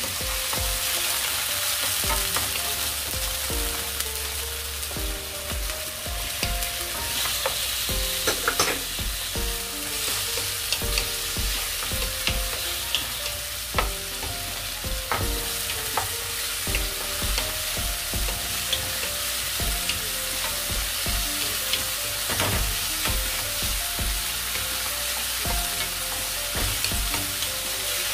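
Green onion and garlic sizzling in oil in a nonstick pan, stirred with a wooden spatula that scrapes and taps the pan in many short clicks. Partway through, chopped tomatoes are added and go on frying as they are stirred.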